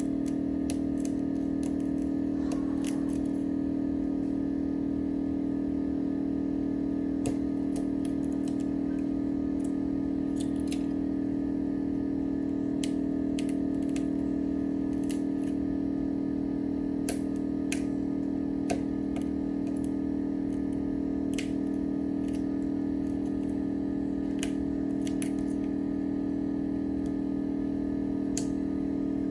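A steady electrical hum from a machine runs throughout, under scattered small, sharp clicks and taps of hand tools working on a phone.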